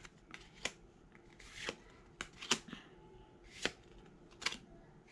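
Pokémon trading cards being handled and slid against one another: faint, irregular swishes and light clicks, about a dozen.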